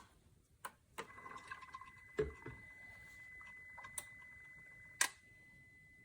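A few sharp clicks and a duller knock, with a faint steady high-pitched tone setting in about a second in.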